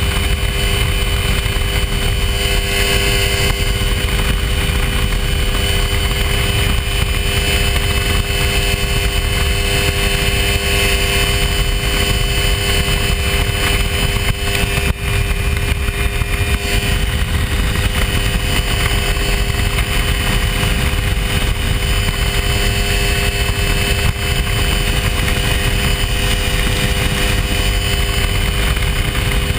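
Hy-Tek Hurricane ultralight's engine and propeller running steadily in flight, a loud, even drone that holds one pitch throughout.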